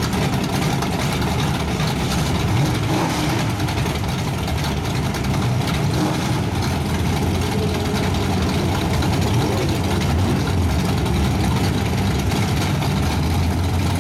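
Drag race car engines idling at the starting line, a steady low rumble that grows a little heavier in the second half.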